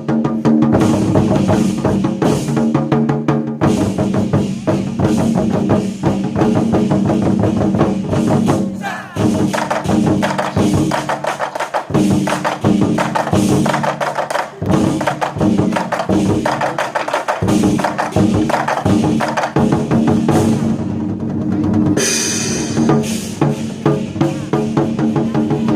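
A troupe of Chinese war drums beaten in a fast, dense rhythm over music with held low tones. Brighter clashes come in about 22 seconds in and again near the end.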